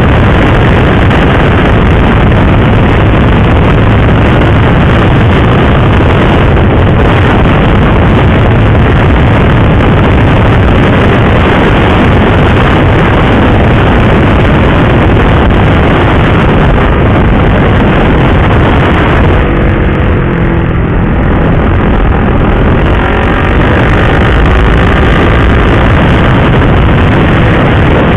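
Loud, steady wind rush on the microphone of a sport motorcycle riding at speed, with the engine mostly buried beneath it. About twenty seconds in the wind eases briefly and the engine note can be heard falling and rising again.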